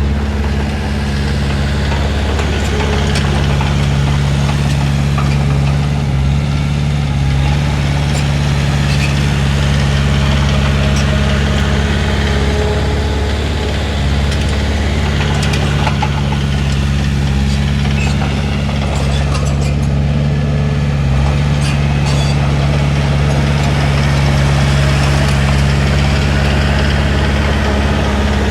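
Komatsu D31P bulldozer's diesel engine running steadily, with a few faint clanks.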